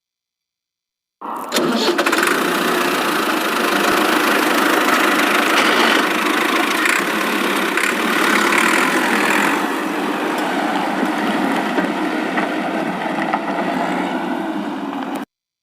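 A motor running steadily, starting abruptly about a second in and cutting off suddenly near the end.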